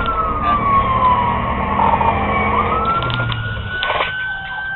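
Police car siren in a slow wail, its pitch falling over about two seconds and then rising again, over steady road and engine noise.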